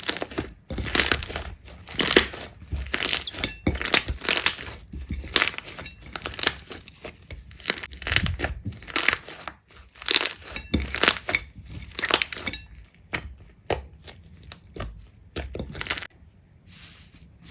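Slime being squeezed and pressed by hand, giving a run of sharp crackles and pops, one or two a second. The crackles thin out to a few faint clicks after about thirteen seconds.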